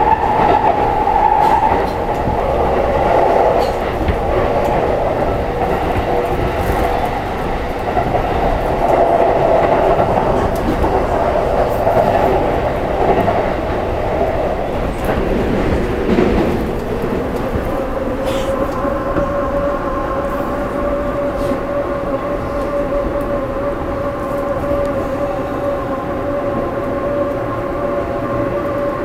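Wind and running noise in the open gap between two cars of a moving Yamanote Line commuter train: a steady rush of air and rumble with occasional clicks of the wheels over rail joints. About seventeen seconds in, a steady whine joins the noise.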